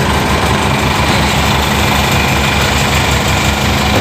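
Heavy road-works engine running steadily at idle, a low, even pulsing hum.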